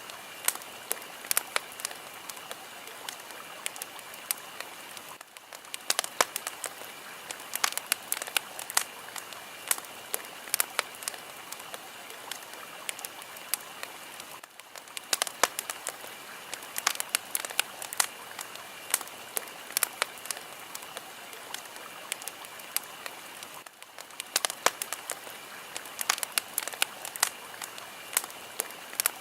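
A wood fire burning, with steady crackling and frequent sharp pops over a soft hiss. The level dips briefly about every nine seconds.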